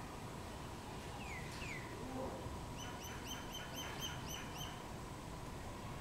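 A bird calling: two short falling whistles, then a quick run of about eight repeated short notes, roughly four a second, over a steady outdoor background hiss.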